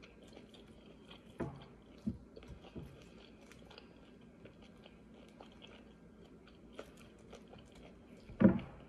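A person chewing a lettuce salad: soft crunches and small wet mouth clicks. A few sharper knocks come in the first three seconds, and a louder thump comes near the end.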